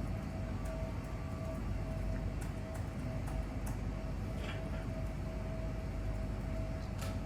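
Café room ambience: a steady low rumble with a constant hum, broken by a few light clicks and clinks, the sharpest near the end.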